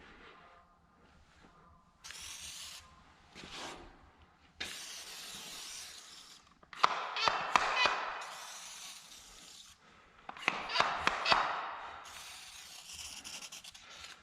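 Truck cleaning work with a spray bottle of Spray Nine cleaner: several short hissing spray bursts, with clattering knocks and clicks from handling the bottle and tools in two bunches partway through.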